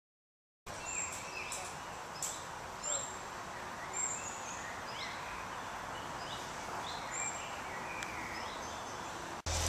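Birds chirping and singing over a steady outdoor hiss: short high whistled notes and quick sweeping calls scattered throughout, after a brief silence at the start.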